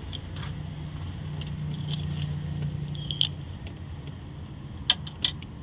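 Metal clinks and jangling from hand tools being handled during repair work on the coolant bypass valve, a few sharp clicks, two of them close together near the end, over a steady low hum.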